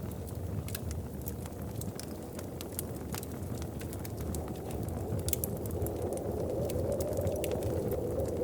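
Wood fire crackling, with scattered sharp pops over a low steady rumble of fire and wind that grows louder in the second half.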